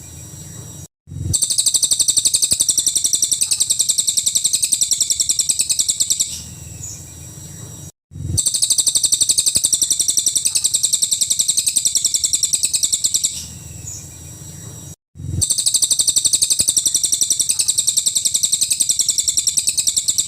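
Cililin bird song, used as a masteran: a rapid, high-pitched run of sharp repeated notes lasting about five seconds, followed by a few softer chirps. The same phrase plays three times, with a brief cut to silence before each repeat.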